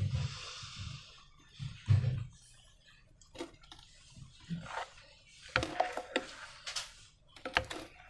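Slime being squished and pulled by hand: irregular sticky squelches and crackles with a few sharp clicks, the busiest stretch in the second half.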